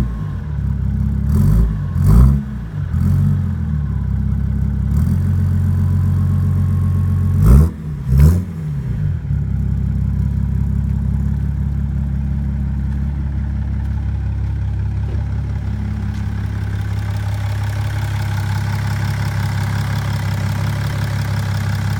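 BMW 335d twin-turbo diesel straight-six through a 3-inch Magnaflow exhaust with resonator: several quick throttle blips in the first nine seconds, each rising and falling back, then a steady idle.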